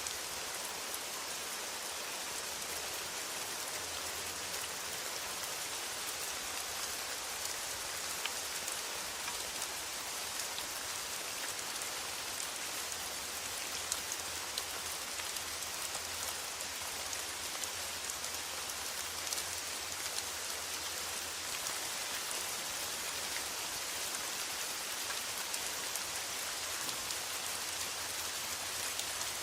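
Steady rain falling on a metal roof: a dense, even hiss with many small, sharp drop ticks scattered through it.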